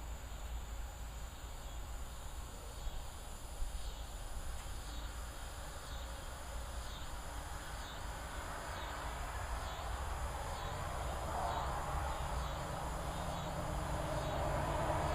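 Insects chirping in an even, high-pitched rhythm, about three pulses every two seconds, while distant thunder rumbles and grows steadily louder through the second half.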